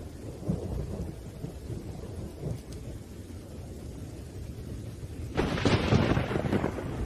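Thunderstorm with rain: a low, rolling thunder rumble, then a sharp, loud thunderclap about five and a half seconds in that dies away within a second or so.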